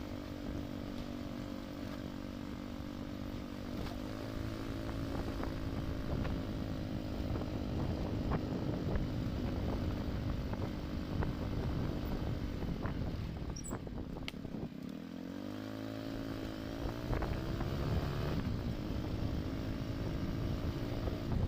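Small motorcycle engine running steadily while being ridden, with scattered knocks and rattles. About two-thirds of the way through its note drops as it slows, then climbs again as it picks up speed.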